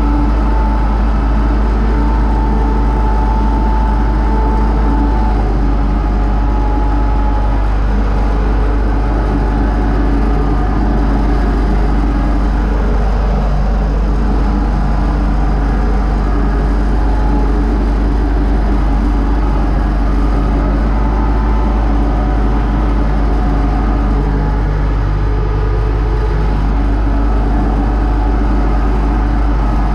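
Universal U650 tractor's diesel engine running at a steady, unchanging speed, a loud low drone.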